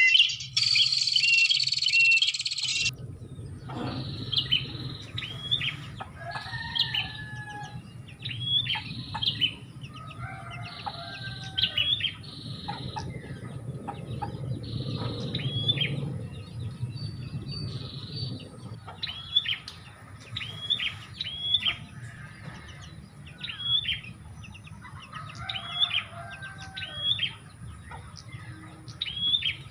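Prinia (prenjak) lure-call recording: a loud, dense chattering of high calls for the first three seconds cuts off abruptly. Repeated short, sharp, high call notes follow at about one per second, with softer, lower bird calls in between.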